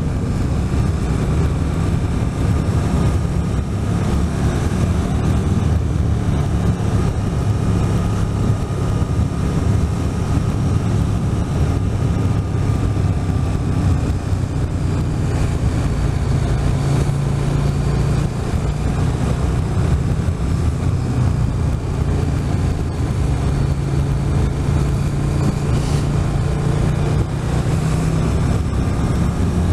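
Motorcycle engine running steadily while riding, its low drone holding a nearly constant pitch over an even rush of noise.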